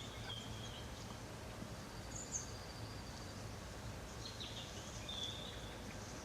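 Small birds giving a few short, high chirps and whistles, scattered and faint over a quiet outdoor background.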